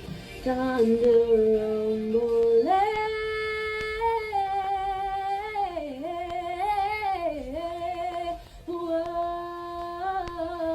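A woman singing a wordless melody, holding long notes that step up in pitch and swoop down and back up several times.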